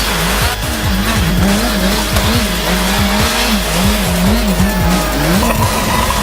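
Motorcycle engine revving up and down rapidly and repeatedly, about twice a second, over a steady hiss as the bike drifts on ice.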